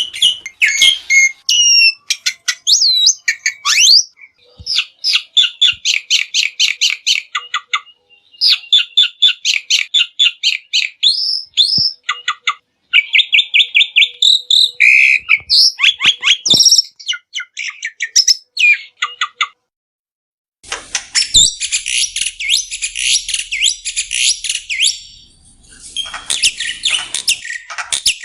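Black-winged myna (jalak putih) calling: runs of quick, repeated chattering notes mixed with short whistles. After a brief break about twenty seconds in comes a denser, raspier bout of chatter.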